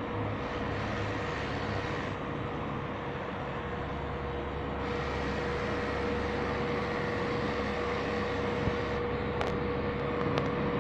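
Electric car polisher running steadily during paint compounding, a constant motor whine over a whirring hiss.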